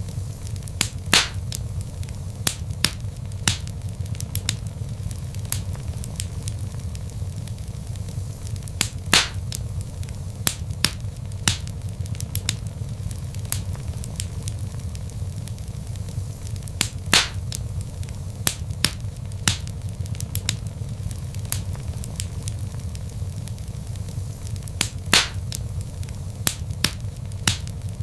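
Wood log fire crackling: scattered sharp snaps and pops over a steady low rumble, with a louder pop every several seconds.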